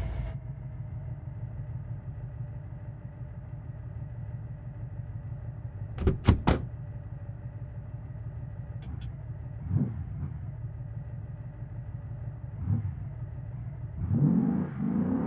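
Porsche Cayenne Turbo S twin-turbo V8 idling steadily just after a start, heard from inside the cabin. It is broken by three sharp knocks about six seconds in and a few lighter clicks and thumps later. Near the end the engine note starts to rise as the car pulls away.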